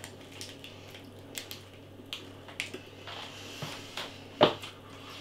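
Chewing a crunchy nut bar with peanuts, chocolate and toffee: scattered crisp crunches and small mouth clicks, with one louder crunch about four and a half seconds in.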